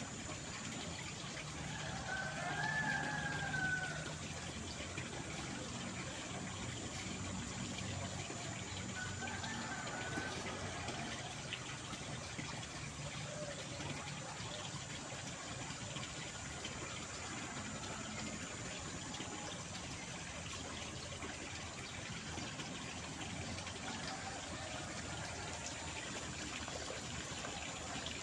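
Steady rush of flowing water. Two faint, brief wavering calls come about two and nine seconds in.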